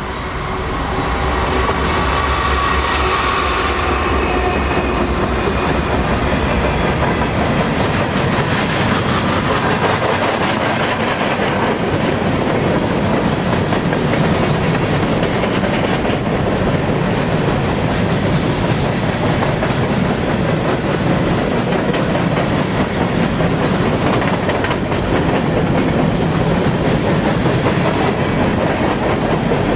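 Empty grain train rolling past, its cars' wheels clacking over the rail joints in a steady, loud rumble. A deeper low rumble with some steady tones sounds over the first several seconds, then thins out, leaving the rolling cars.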